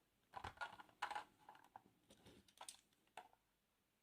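Faint, irregular clicks and light taps of small diecast model vehicles being handled and set down on a hard surface, ending a little after three seconds in.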